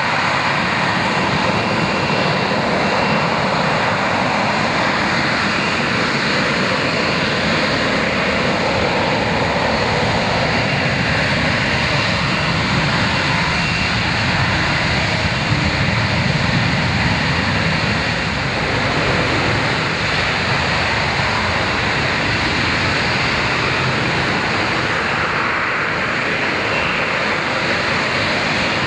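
Sea Harrier's Rolls-Royce Pegasus turbofan running loud and steady, a continuous jet roar with no break.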